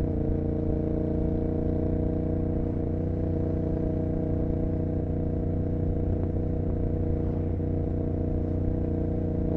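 Royal Enfield Continental GT 650's 648 cc parallel-twin engine running at a steady speed through aftermarket Emgo cafe mufflers, heard from the rider's seat. The engine note holds an even, unchanging pitch.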